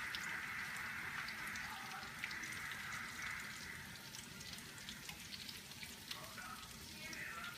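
Cauliflower patties frying in shallow oil in a skillet: a steady sizzle with scattered small pops and crackles, easing off a little about halfway through.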